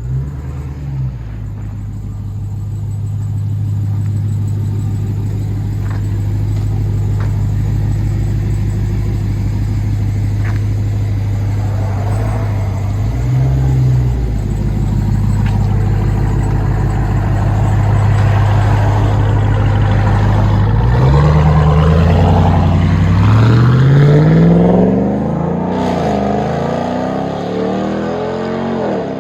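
Straight-piped exhaust of a Ram TRX's supercharged 6.2-litre Hemi V8, its mufflers deleted, running with a steady deep drone and two short blips of the throttle. About three quarters of the way through it accelerates, the pitch climbing for a few seconds before easing off.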